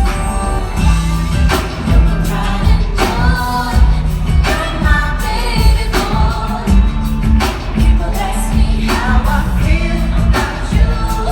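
Live R&B music played loud through a concert sound system: a band with a steady beat and heavy bass, with singing over it.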